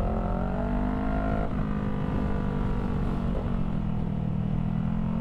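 Motorcycle engine accelerating through the gears, its pitch climbing and then dropping back at upshifts about one and a half and three and a half seconds in, over a steady low rumble.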